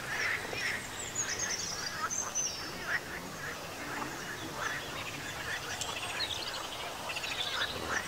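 Birds calling, with many short chirps and a few high whistled notes.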